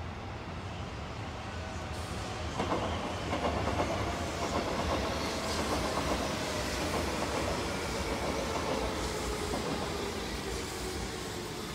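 Hanshin electric train running past, its wheels clicking over the rail joints, with a tone that slowly falls in pitch as the train goes by.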